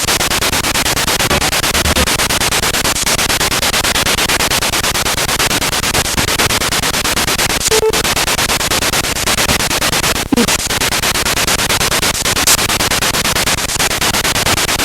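Spirit box radio sweeping rapidly through stations: loud, continuous hissing static chopped into a fast, even stutter by the channel stepping, with a few brief dips.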